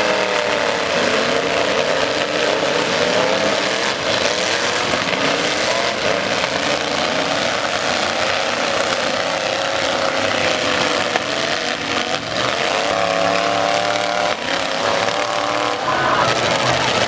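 Several pickup-truck engines running and revving at once in a demolition derby, their pitch rising and falling, with scattered sharp knocks of collisions.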